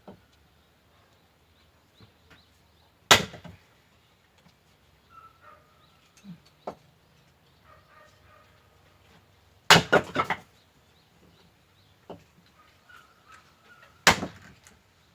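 Firewood being split with an axe: three sharp chopping strikes about five seconds apart. The second strike is followed by a short clatter of wood pieces knocking together.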